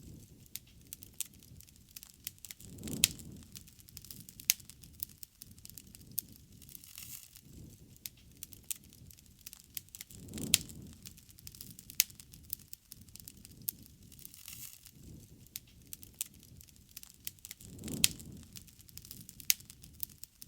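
Wood bonfire crackling, with many sharp pops and snaps. A soft low whoosh of flame swells about every seven seconds.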